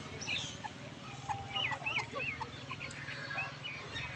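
Caged birds calling in short, twisting chirps, thickest about a second and a half in, over a low steady rumble.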